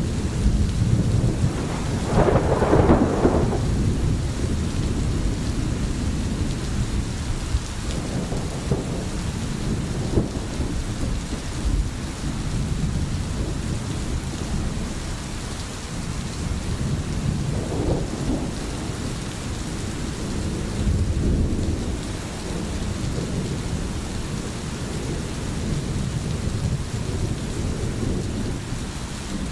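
Steady rain in a thunderstorm, with rolling rumbles of thunder. The loudest peal comes about two to three seconds in, and weaker rumbles swell again later on.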